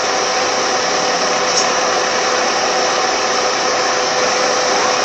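Car air conditioning running: the blower fan gives a steady whooshing whir with a steady hum under it.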